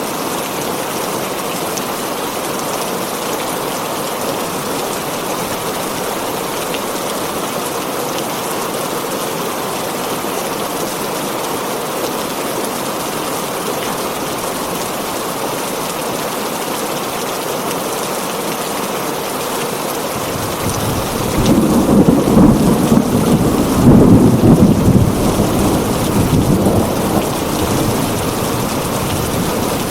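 Heavy rain drumming steadily on a tin roof, with a roll of thunder rumbling up about two-thirds of the way through, loudest for a few seconds, then fading back under the rain.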